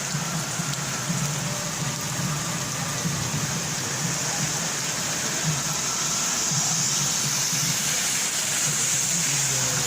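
Heavy rain falling steadily, an even hiss, with a low steady hum underneath, getting a little louder past the middle.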